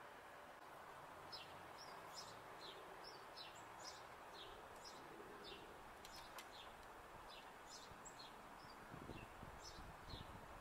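Faint, short, high chirps of small birds, repeated a few times a second, each a quick falling note, over a steady hiss; a few soft low rustles near the end.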